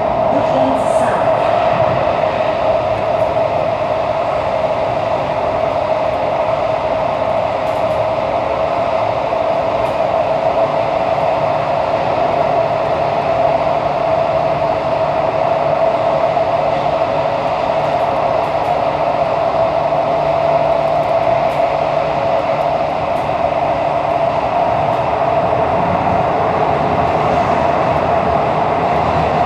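SMRT CT251 metro train running through a tunnel: steady running noise with a constant whine that the uploader calls a strange high-pitched sound from this train set.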